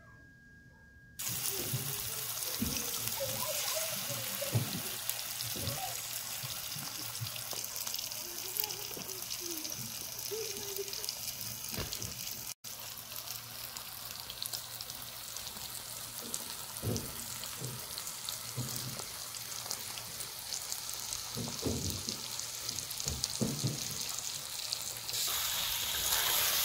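Food frying in a pan: a steady sizzle that starts about a second in and grows louder near the end, with a few soft knocks.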